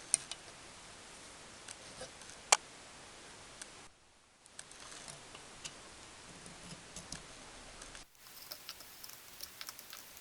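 Faint hiss with scattered small clicks and ticks in a small room, one sharp click about two and a half seconds in.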